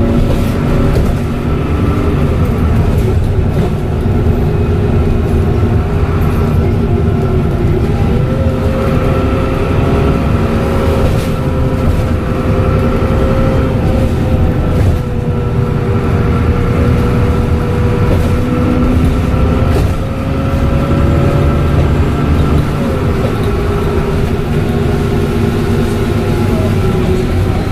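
Dennis Trident double-decker bus with a Voith automatic gearbox running under way: steady engine and drivetrain noise with a whine that rises and falls slowly in pitch, and scattered light rattles.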